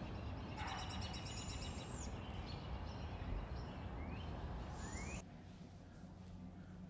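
Birds calling over a steady low outdoor hum: a raspy, rapidly pulsed call about half a second in, then a few faint high notes and two short rising calls. The sound cuts off abruptly a little after five seconds, leaving only faint background.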